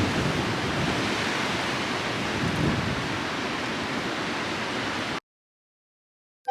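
Blizzard wind blowing hard over the microphone: a steady rushing noise with no tone in it. It cuts off suddenly about five seconds in.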